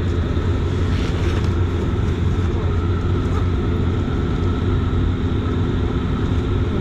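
Dash 8 Q400's Pratt & Whitney PW150A turboprop engines and propellers running at low power while the airliner taxis after landing. It is a steady drone with a deep hum and a few steady higher tones.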